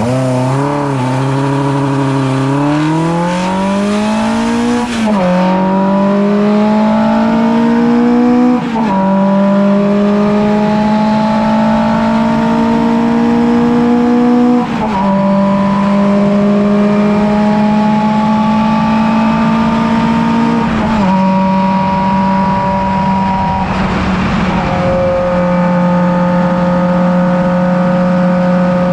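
Ford Puma's engine launching from a standstill and accelerating hard up through the gears. The revs waver at the launch, then the pitch climbs steadily in each gear, with upshifts about 5, 9, 15 and 21 seconds in and another near the end.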